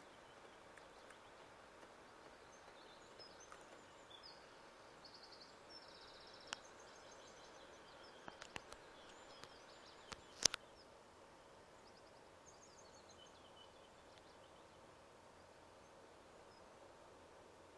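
Faint outdoor ambience with small birds chirping and trilling quietly. A few sharp clicks come near the middle, the loudest about ten seconds in.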